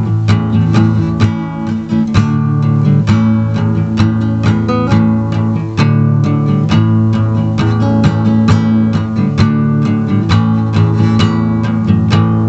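Instrumental guitar music: a strummed acoustic guitar playing chords in a steady rhythm, with no singing.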